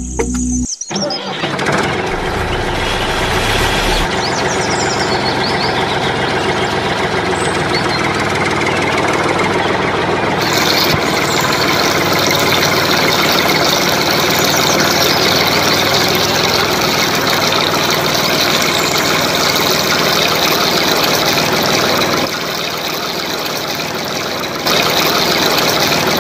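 A motor or engine running steadily with a dense mechanical noise. It changes tone abruptly a few times, about 4, 10 and 22 seconds in.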